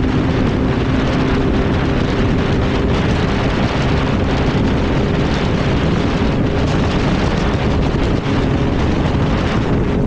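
Sport motorcycle engine running at a steady cruising speed, under heavy wind noise rushing over the helmet microphone.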